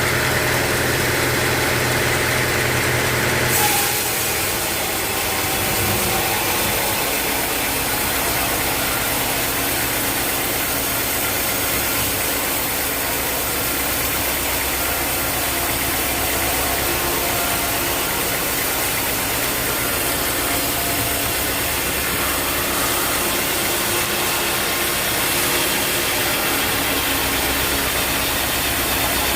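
Sawmill machinery engine running steadily, with an abrupt change in its sound about three and a half seconds in.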